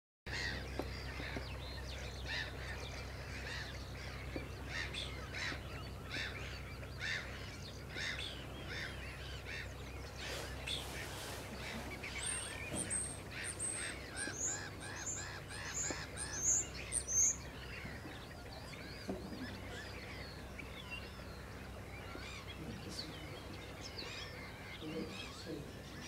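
Birds calling: many short, repeated calls through the first two thirds, with a run of high, sharp notes about halfway through that are the loudest, then only scattered calls toward the end.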